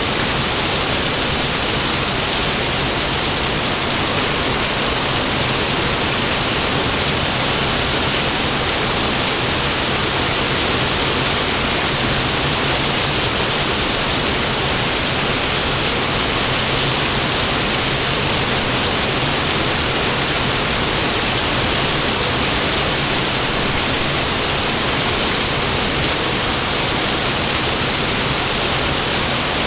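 Heavy rain falling in a steady, unbroken downpour, with no thunder in this stretch.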